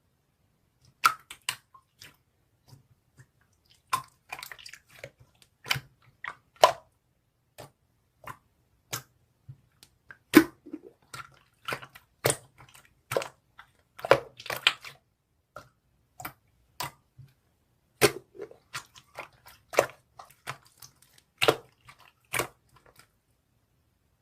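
Irregular close-up clicks and short crunchy pops, some single and some in quick clusters, with complete silence between them.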